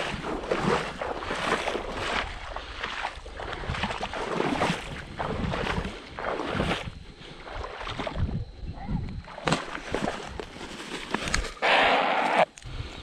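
Water sloshing and splashing around a small boat in irregular strokes, with one louder rush of splashing lasting under a second near the end.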